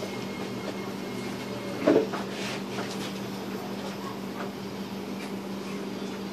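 SMRT C751B train interior: steady electrical hum of the train's on-board equipment, with one short loud thump about two seconds in.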